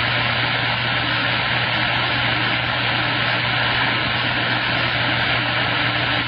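CB radio receiver static through the radio's speaker: a loud, steady hiss with a low steady hum under it.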